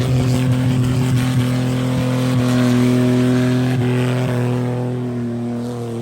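Car engine held at high, steady revs, its pitch barely changing, getting somewhat quieter in the last second or two.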